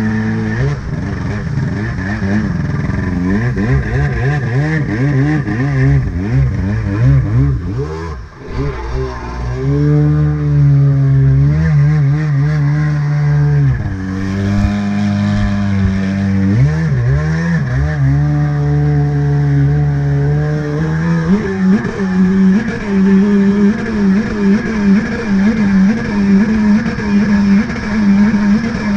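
Stand-up jet ski's two-stroke engine running under changing throttle. The revs waver and rise and fall, drop sharply about eight seconds in, hold steady, dip and climb again near the middle, then settle into a steady, pulsing run for the last several seconds.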